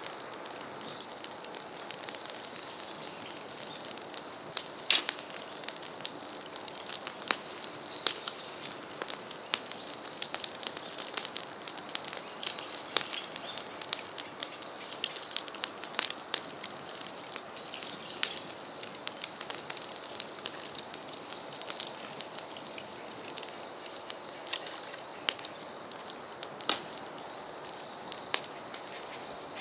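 Bamboo burning in an open bonfire: steady crackling with many sharp pops, one louder pop about five seconds in. A high, steady whistle comes and goes several times.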